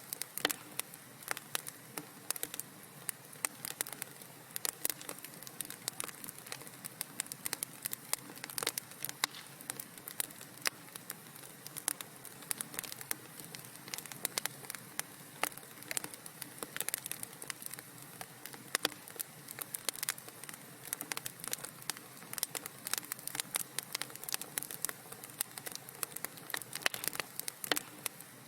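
Wood fire crackling: a steady soft hiss under frequent irregular pops and snaps.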